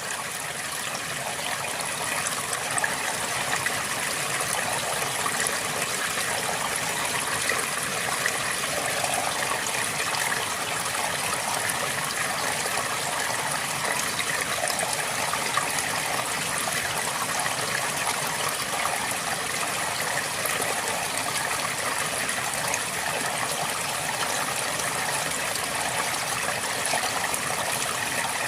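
A river flowing over rocks, with a steady rushing and a light bubbling and gurgling in it.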